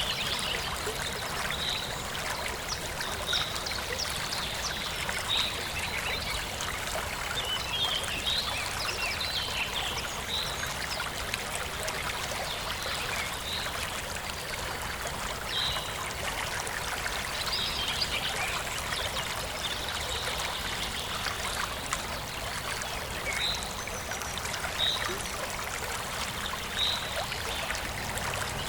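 Forest stream flowing with a steady trickle, and a bird giving short high chirps every couple of seconds.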